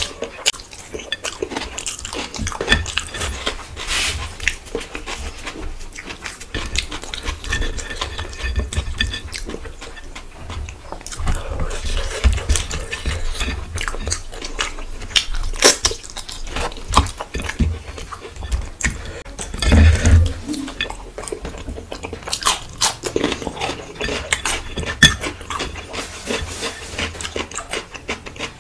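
Close-miked chewing of a mouthful of bhuna khichuri, with irregular wet mouth clicks, and fingers scraping rice together on a plate.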